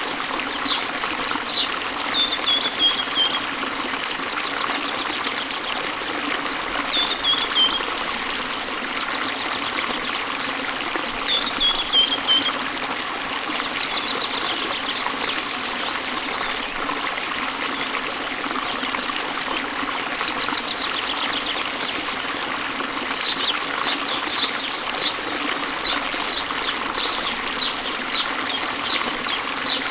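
Steady running water, with small songbirds singing over it. Three short falling trills come in the first half, and a quick run of sharp chirps near the end.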